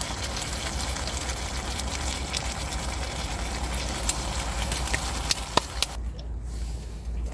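Broad beans and chopped scallions sizzling in a frying pan, with a few sharp pops of spitting oil; the sizzle cuts off suddenly about six seconds in, leaving a low steady hum.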